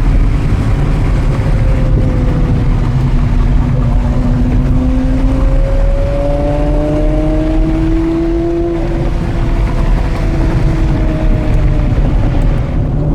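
Porsche Carrera GT's 5.7-litre V10 breathing through an FVD exhaust, pulling steadily with its pitch climbing slowly and dropping at upshifts about six and nine seconds in, over a heavy low rumble of wind and road noise.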